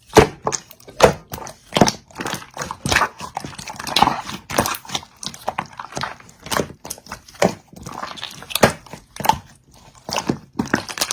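An animal, tagged as a dog, making irregular short, sharp sounds through the whole stretch, a few of them with a brief pitched note.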